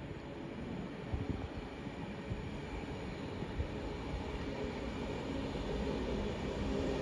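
Train approaching along the line, a steady rumble growing gradually louder.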